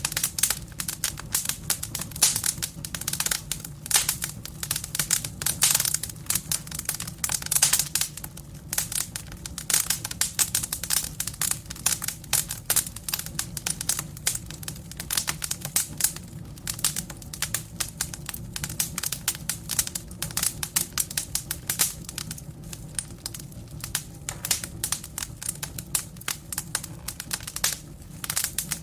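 Burning firewood in a fireplace crackling, with dense, irregular snaps and pops over a steady low sound underneath.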